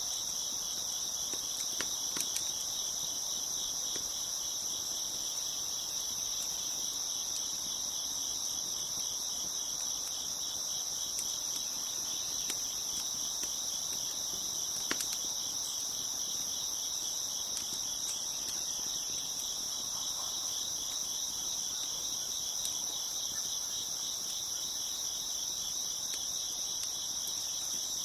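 Crickets chirping in a steady, dense, high-pitched chorus, with a few faint sharp crackles from a wood fire.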